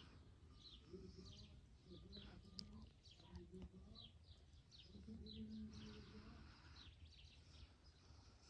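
Small birds chirping faintly: short, high chirps that slide downward, repeated about twice a second.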